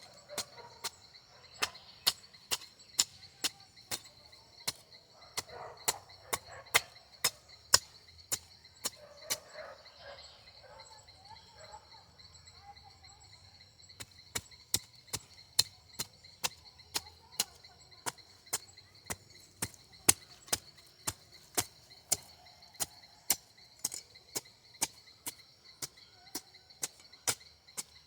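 A hand garden tool chopping into compacted soil to loosen it, in regular strokes about one and a third a second, pausing for a few seconds midway before going on. A steady high cricket chirr runs underneath.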